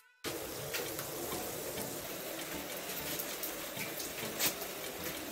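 Steady rain falling, with a few light taps and clicks, the loudest about four and a half seconds in.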